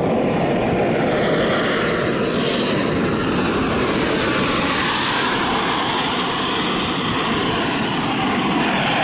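Radio-controlled model airplane engine running steadily in flight, with a faint high whine that slides down and back up in pitch twice as the plane passes.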